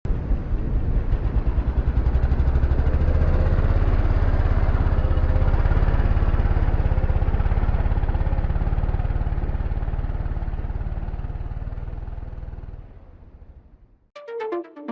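Motorcycle engine running with an even, fast firing pulse, fading out over the last few seconds. Electronic music begins just before the end.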